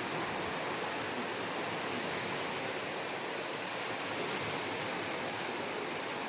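Steady, even rushing noise with no distinct bird calls or other events.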